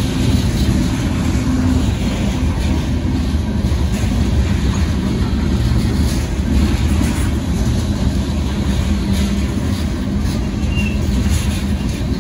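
Covered hopper cars of a freight train rolling past at close range: a steady rumble of steel wheels on the rails with clacks of the wheels scattered through it.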